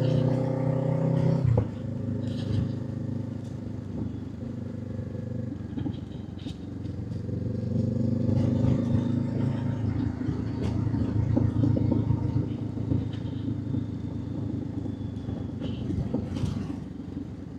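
Honda 500 parallel-twin motorcycle engine running on the move. The revs rise and then drop sharply about a second and a half in, then build again a few seconds later and carry on at a steady pull.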